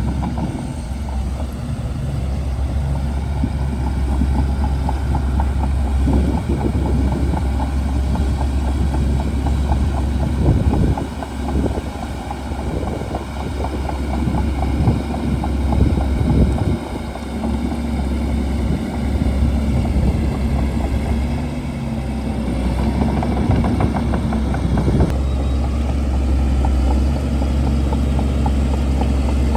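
Shantui DH17C2 bulldozer's diesel engine running steadily under load, its note rising and falling, with irregular clattering through the middle and a change in engine pitch near the end.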